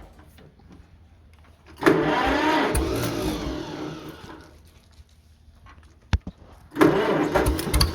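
John Deere M tractor's two-cylinder engine running, heard in two stretches: it comes in suddenly about two seconds in and fades out, then comes back loud near the end after a sharp click.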